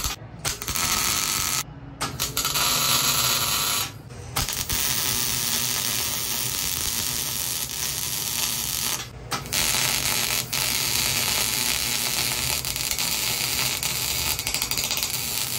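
Welder arc crackling and sputtering while a steel exhaust pipe coupler is welded. The arc runs in several stretches, cutting out briefly about 2 seconds in, again about 4 seconds in, and once more near 9 seconds, as the welder is stopped and restarted.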